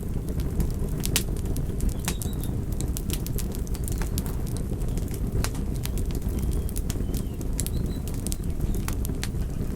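Campfire crackling: a steady low rumble of burning wood with sharp pops and snaps at irregular intervals.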